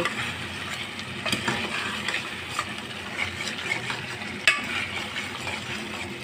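Chicken palak curry sizzling in a pot while a metal ladle stirs it, with a few sharp scrapes and taps of the ladle against the pot, the loudest about four and a half seconds in. It is in its final frying stage, with the oil risen to the top.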